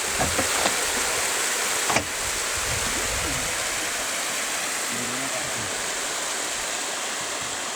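Steady rush of a fast-flowing river's water, heard from a raft on it, with a single sharp knock about two seconds in.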